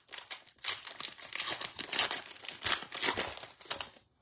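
Wrapper of a Topps Archives baseball card pack being torn open and crinkled by hand: dense crackling and rustling that stops shortly before the end.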